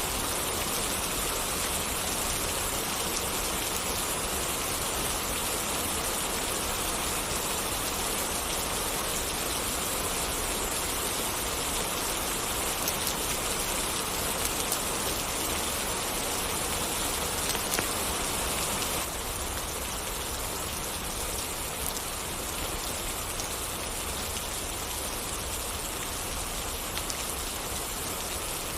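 Steady rain falling and pattering on surfaces, an even hiss with a few faint drop ticks; the hiss drops slightly about two-thirds of the way through.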